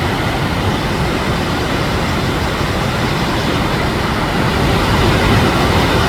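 Waterfall: rushing water pouring in a loud, steady roar of noise, growing a little louder near the end.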